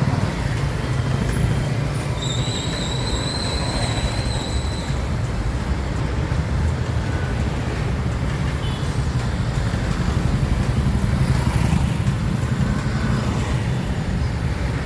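A steady low rumble of outdoor background noise, with a thin high whistling tone held for about three seconds near the start.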